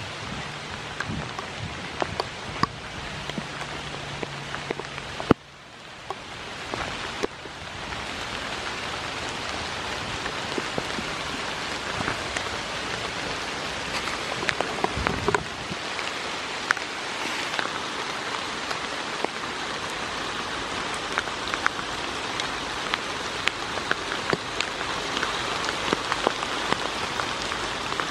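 Steady rain falling, dotted with frequent sharp ticks of single drops landing close by. The rain sound drops off suddenly about five seconds in and builds back up within a couple of seconds.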